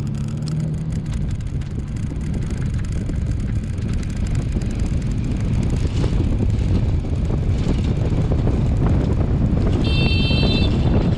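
Wind rushing over the microphone of a hang glider under truck tow, growing louder as airspeed builds. Near the end a brief high electronic beep sounds.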